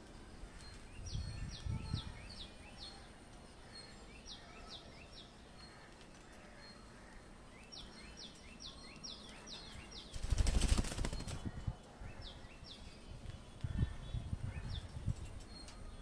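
Bird chirping in quick runs of short, high, falling notes, about four a second, several runs with pauses between. About ten seconds in, a loud rustling burst lasts about a second and a half, with a few low thumps around it.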